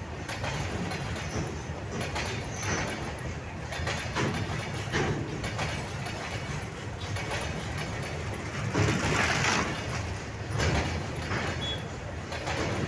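Heavily loaded freight train of open box wagons rolling past, a steady low rumble with repeated metallic clanks and clatter from the wagons, loudest about nine seconds in.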